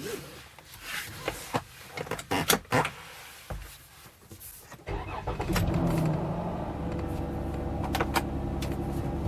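Several clicks and knocks, then about five seconds in a car engine starts and settles into a steady idle.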